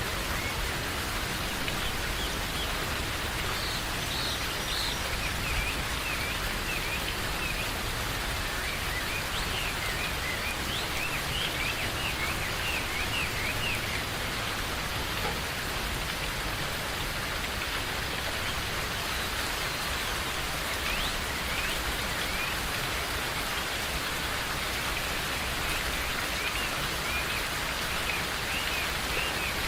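Steady rain falling in a forest, with birds chirping in short, scattered bursts of high calls above it.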